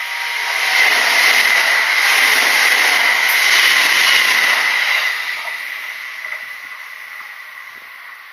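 Kintetsu Nagoya Line electric train passing at speed: a rushing noise that swells about a second in, holds for some four seconds, then fades away, with a steady high-pitched whine over it.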